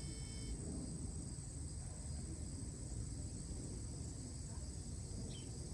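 Steady high-pitched insect drone, like crickets, over a low rumble. A faint steady whine cuts off about half a second in, and a short chirp comes near the end.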